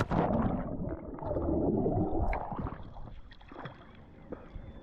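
Water splashing and churning as a swimmer goes into the lake, with a sudden splash at the start and a dull sloshing for the first two and a half seconds that dies down to faint lapping.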